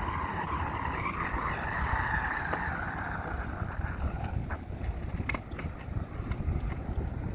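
Riding noise of a mountain bike recorded on a handheld phone: wind rumbling on the microphone under the hiss of the tyres on the road. The hiss fades over the first few seconds, and a few light clicks follow.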